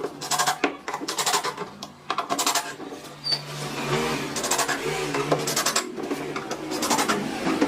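Woodworking workshop noise: clusters of sharp knocks and clicks from hand tools and wood being worked, over a steady low hum.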